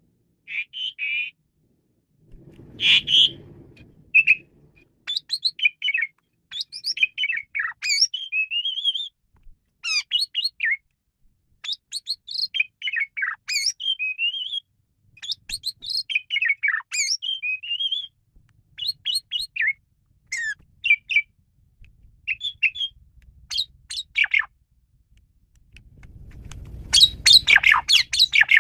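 Male Asian pied starling (jalak suren) singing a varied song: a quick run of short whistles, chatters and squeaky notes, broken by harsh rasping bursts, the loudest near the end.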